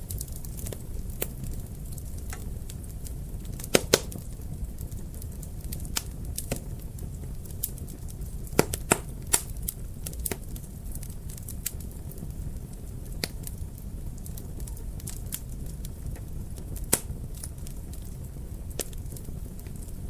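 Wood fire burning in a fireplace: irregular sharp crackles and pops over a low steady rumble, with the loudest pops about four seconds in, around nine seconds, and near seventeen seconds.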